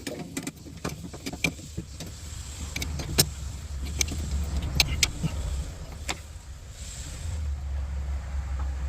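Scattered sharp clicks and light knocks of hands working red electrical tape around the excavator's hydraulic hoses, with a brief hiss about seven seconds in. Under it runs a low steady rumble.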